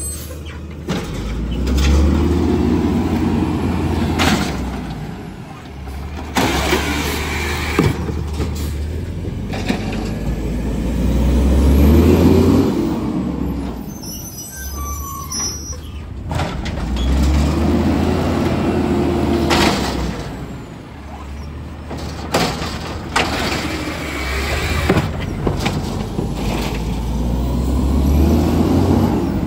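Garbage truck engine revving up and down in a repeating cycle about every seven to eight seconds, with sharp bangs and hisses in between.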